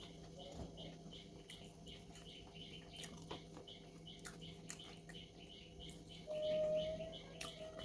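Repeated short high chirps, about two or three a second, with scattered sharp clicks, and a held whistle-like tone that rises slightly near the end.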